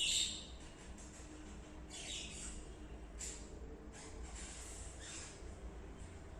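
Budgerigar chirping in short high calls, the loudest right at the start, then a few more scattered through, over a low steady hum.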